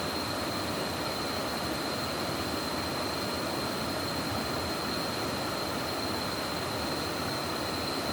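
Steady, even rushing of water from a swollen forest stream, with a thin high-pitched tone held throughout.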